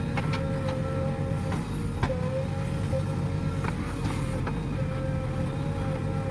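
JCB backhoe loader's diesel engine running steadily, with a few short clanks, the loudest about two seconds in.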